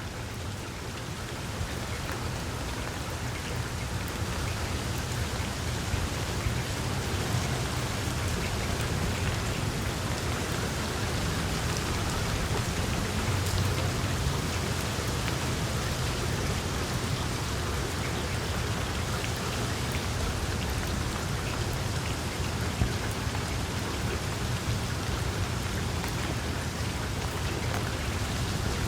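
Small wood fire crackling in a fireplace: a dense, steady patter of tiny pops and snaps over a low rumble of flame.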